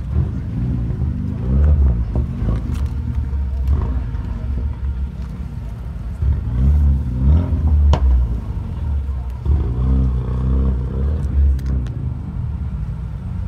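A car engine running with a deep, low rumble, revved up briefly three times: about two seconds in, around six to eight seconds in, and around ten seconds in.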